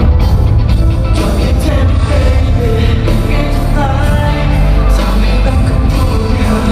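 Live rock band playing loud and amplified, with a singer's voice over heavy bass and a steady drum beat, echoing in a large hall.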